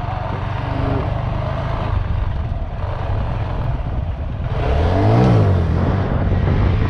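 Honda Grom's single-cylinder engine running under way, with wind noise over the helmet microphone. About five seconds in, the engine revs up sharply and drops back.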